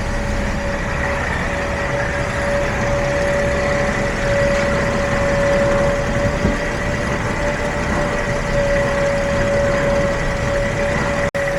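Mercedes-Benz Sprinter's 3.0 L OM642 diesel V6 idling steadily, with a steady whine over it. The engine is running again now that the crankshaft position sensor sits without its wrong spacer and reads the tone wheel.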